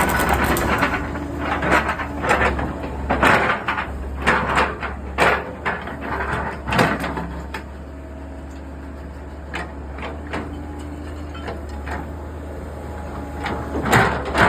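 Machinery: a steady low engine hum with irregular knocks and clanks, most of them in the first half and a few more near the end.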